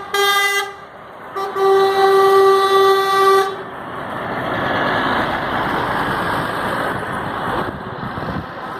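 A truck horn sounding one steady note: a blast that cuts off under a second in, then a longer blast of about two seconds. After that comes the broad rushing noise of a truck going by.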